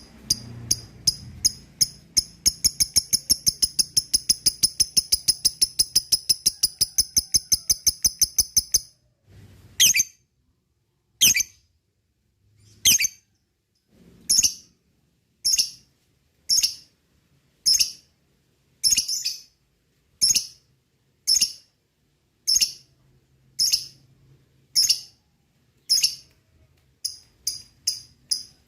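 Lovebird chirping in its 'ngekek' chatter: a fast run of sharp, high chirps, about seven a second, that stops about nine seconds in. Single chirps follow about once every second or so, and a fast run starts again near the end.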